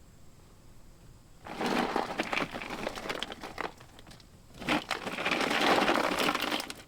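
Packaging crinkling and rustling as it is handled, in two spells of about a second and a half and two seconds.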